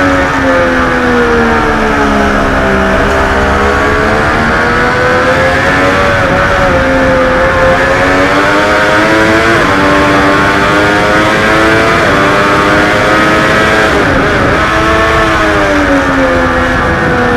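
Triumph Daytona 675R's three-cylinder engine at racing speed, heard from onboard: the pitch falls over the first few seconds as the rider slows for a corner, then climbs again, broken by brief dips at gear changes.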